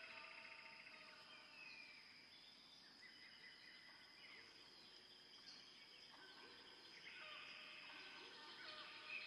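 Faint bird chirps and short calls over quiet background noise, with a thin steady high tone running underneath.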